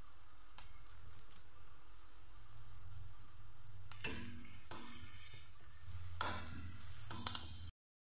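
Onions, garlic and curry leaves sizzling in hot oil in a kadai. From about four seconds in, a spatula stirs them, adding a run of scraping strokes over the steady sizzle. The sound cuts off abruptly just before the end.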